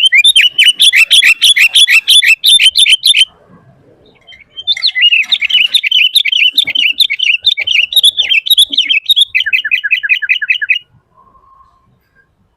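Sooty-headed bulbul (kutilang) singing hard in rapid chirping phrases: a burst of fast repeated notes for about three seconds, a short pause, then a longer, more varied run of about six seconds that ends in quicker falling notes.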